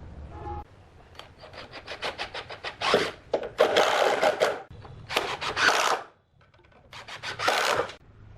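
Wood being worked by hand with a rasping tool: a run of short quick strokes, then four longer strokes of about a second each.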